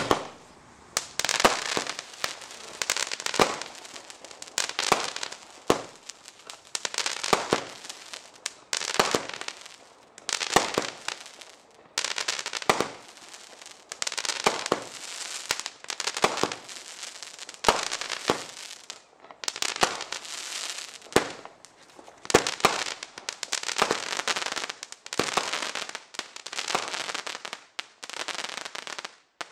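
Comet 'Feuertopf' firework battery firing: a fast run of shot bangs, each followed by crackling from its crackling-palm effects, one after another until it stops abruptly near the end.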